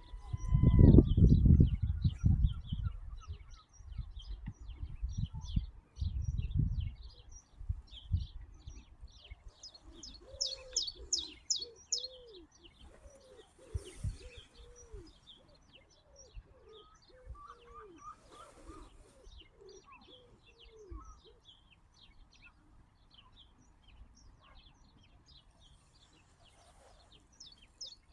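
Small birds chirping and singing, with a series of lower, rounded cooing notes in the middle stretch. Heavy low rumbling bursts, like wind buffeting the microphone, in the first several seconds.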